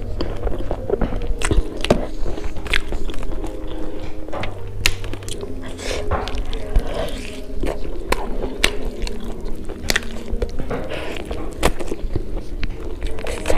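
Close-miked eating: chewing and biting into pork curry and rice, with many quick wet mouth clicks and smacks.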